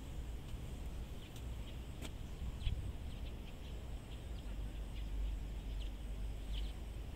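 Small birds on a lawn giving scattered short, faint chirps, over a steady low rumble.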